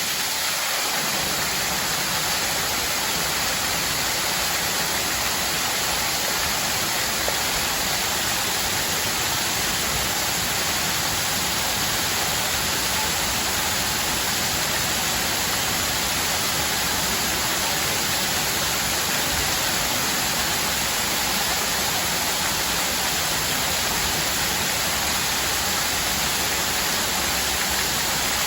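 Water fountain splashing: falling water makes a steady, even rush with no pauses or changes.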